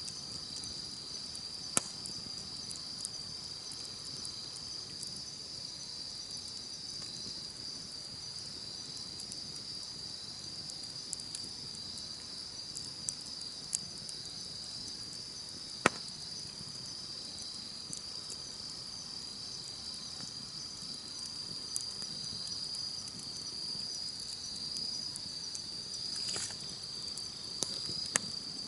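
Insects chirring in a steady high-pitched band over a crackling campfire. The fire gives scattered sharp pops, and the loudest comes about sixteen seconds in.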